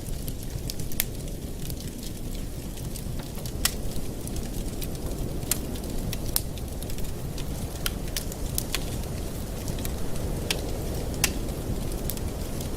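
Wood fire in a fireplace burning with a steady low rush of flames and sharp, irregular crackles and pops.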